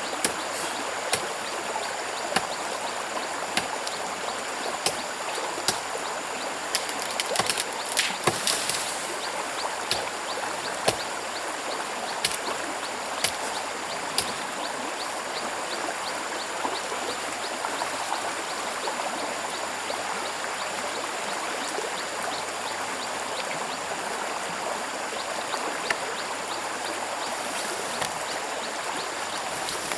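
A stream flowing steadily, with scattered sharp knocks through it, several close together about a quarter of the way in.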